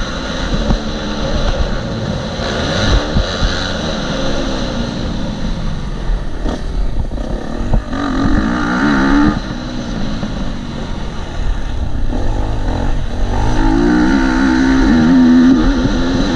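KTM 250 SX-F single-cylinder four-stroke motocross engine being ridden hard, its pitch rising and falling as the throttle is opened and shut, with two strong climbing revs about halfway through and near the end. Wind rumble on the helmet-mounted microphone runs underneath.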